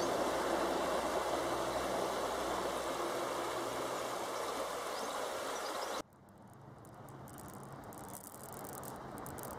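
A steady rushing noise fades slowly, made by a shallow stony river and a train dying away after crossing the viaduct above it. About six seconds in it cuts off abruptly to the much quieter running noise inside a moving train carriage, with light rattles, building up gradually.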